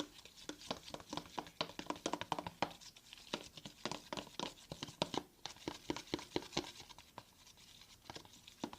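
A spoon stirring white glue and food colouring in a bowl, clicking and scraping against the bowl in a quick, irregular run of small ticks.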